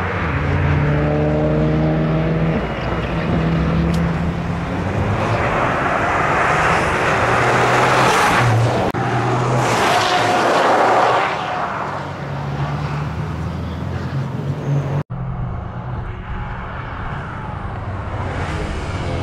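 Toyota GR Yaris's turbocharged three-cylinder engine revving hard, its pitch rising and falling through the gears, loudest as the car passes close about eight to eleven seconds in. After a sudden brief dropout it is heard quieter, further off.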